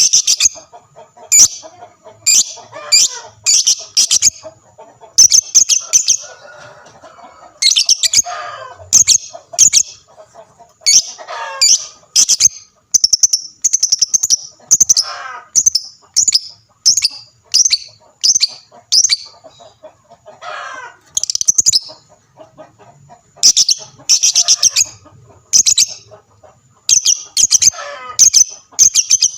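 Lovebirds singing in repeated bursts of rapid, shrill chattering, with a few lower gliding calls in between.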